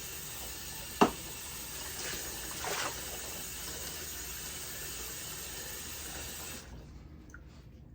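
Water running steadily from a tap as a wig is rinsed, with a sharp knock about a second in; the water cuts off suddenly near the end.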